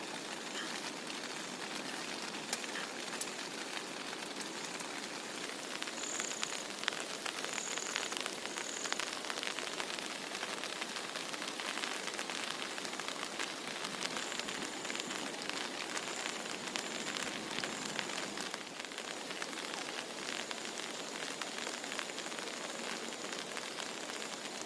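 Steady heavy rain falling, with a dense patter of individual drops striking a surface. No thunder.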